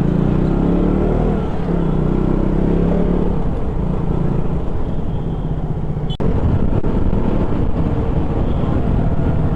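KTM Duke 200's single-cylinder engine running on the move, its pitch rising over the first second or so as it accelerates, then holding steady, with a brief drop about six seconds in.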